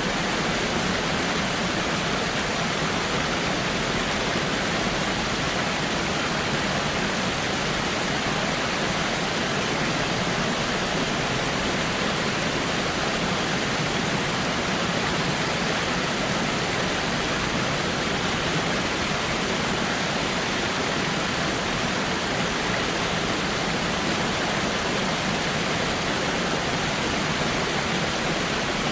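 Waterfall: water falling and splashing in a steady, even rush of noise.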